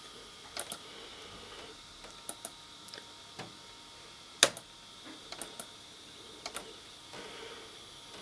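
Sharp plastic clicks from an Apple PowerBook 170 being operated, mostly in quick pairs like a button pressed and released, about six times, the loudest about halfway through. A faint steady hum runs underneath.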